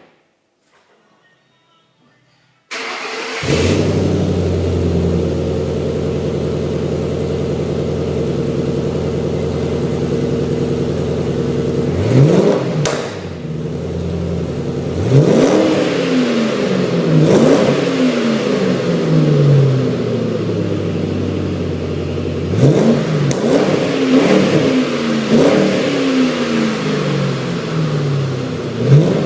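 2008 Ford Mustang GT's 4.6-litre V8 breathing through an SLP stainless steel exhaust: it starts about three seconds in and settles into a steady idle, then is revved in repeated throttle blips, each rising and falling in pitch, with a quick run of three or four blips about two-thirds of the way through.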